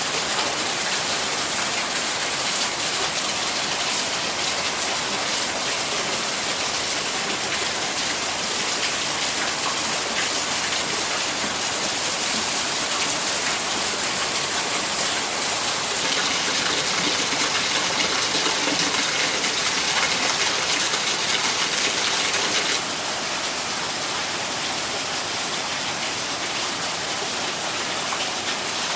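Steady rain falling, a dense even hiss of many drops. For several seconds past the middle it grows a little louder and brighter, then eases back.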